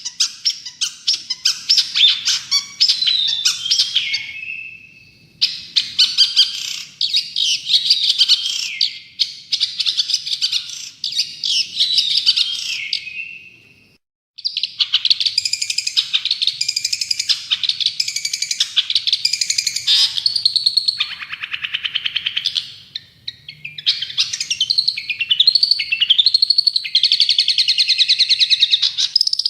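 Long-tailed shrike (cendet) in full song: loud, fast, chattering phrases of quick high notes and glides, in bouts of several seconds. There is a short lull about five seconds in, and a brief break about halfway through.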